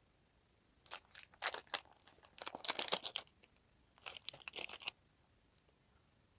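Close-miked crunching of a crunchy snack being chewed, in three bouts of crackly bites: about a second in, a denser run around three seconds, and a last one around four to five seconds.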